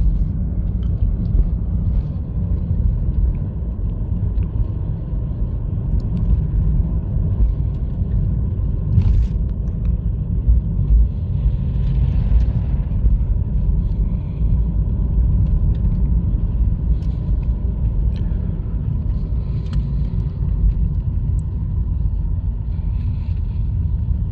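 Inside the cabin of a moving 2020 Honda Fit with a 1.3-litre four-cylinder petrol engine: a steady low rumble of engine and tyre noise on a snowy road.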